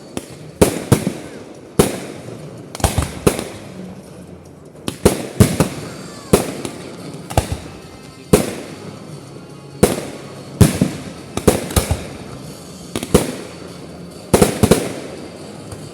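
Aerial firework shells bursting one after another at an uneven pace, about twenty sharp bangs, several in quick clusters, each trailing off in an echoing rumble.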